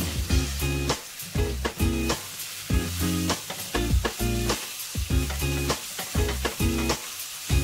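Pork sizzling in a wok while a spatula stirs and scrapes it, several strokes a second, over background music.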